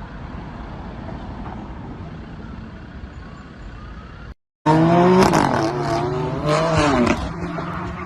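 Steady car road and engine noise. About four and a half seconds in, after a brief dropout, it gives way to a much louder stretch with a held low tone and pitched sounds sliding up and down.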